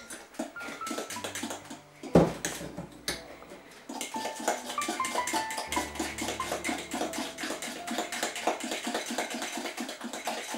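A utensil beating sponge-pudding mixture in a bowl by hand, making quick, even clicks about five a second, with one louder knock about two seconds in. Background music plays underneath.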